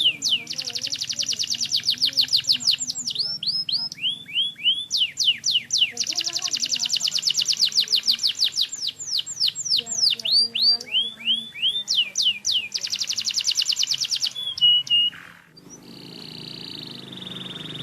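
Domestic canary singing: three phrases of repeated falling whistled notes that run into very fast trills. About fifteen seconds in the song breaks off and a softer, steadier sound with a low hum follows.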